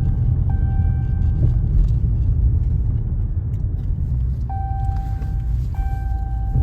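Straight-piped Dodge Charger R/T V8 exhaust rumbling steadily while driving. A faint steady tone starts and stops about every second and a quarter.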